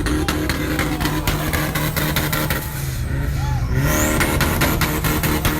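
Car engine revved and held at steady revs, with rapid crackling pops. It dips briefly about three and a half seconds in, then climbs back with a short rising whistle.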